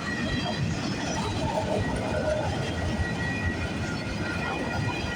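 Freight cars of a CPKC freight train rolling past, a steady rumble of wheels on rail.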